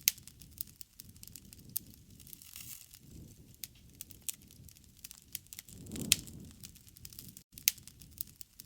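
Wood fire crackling, with irregular sharp pops over a low, steady rustle and a fuller flare-up about six seconds in.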